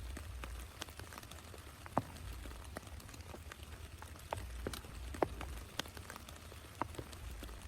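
Rain: scattered drops striking a surface as separate sharp ticks, a few of them louder, over a faint hiss and a steady low rumble.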